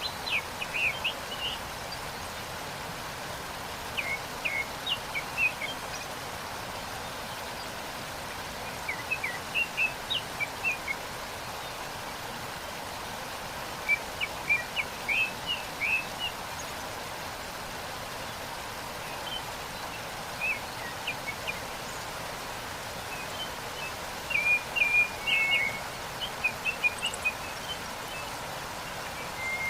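Steady rush of a waterfall, with birds chirping over it in short clusters of quick notes every few seconds; the longest and loudest cluster comes near the end.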